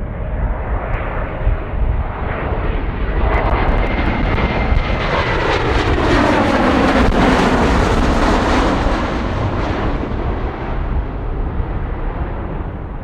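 Jet airliner passing close by, its engine noise swelling to a peak partway through and then fading, with a high whine that drops in pitch as the aircraft goes past.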